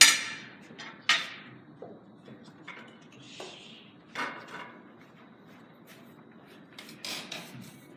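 Carom billiard balls clacking during play: a sharp, loud click at the start, another about a second later, one around four seconds in and a quick cluster of clicks near the end.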